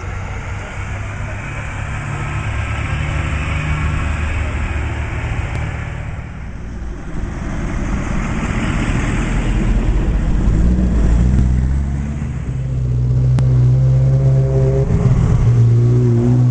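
Car engines running as several cars drive slowly past one after another, among them a vintage open Bentley tourer. In the last few seconds a red Ferrari 360 Modena's V8 passes close by with a steady low note and a brief rev.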